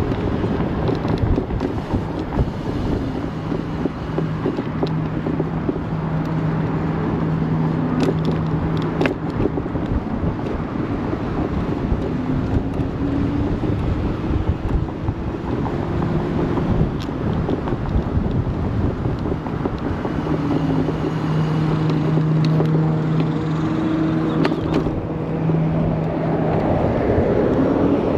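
Wind and road noise from riding an ONYX RCR 80v electric moped, with a low steady hum that comes and goes and a tone that rises in pitch partway through as it speeds up.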